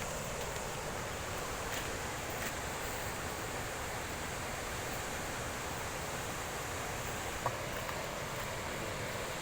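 Steady rushing roar of Kuntala waterfall's falling water, even and unbroken.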